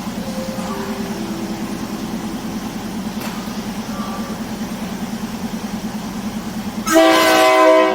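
Diesel train's engine idling with a steady, fast-pulsing hum, then a loud horn blast of about a second near the end as the train prepares to depart.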